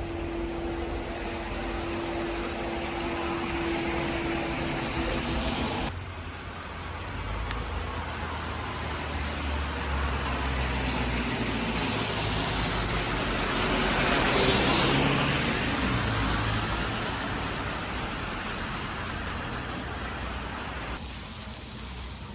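Road traffic: cars passing on a street, with one louder pass that swells and fades about two-thirds of the way through.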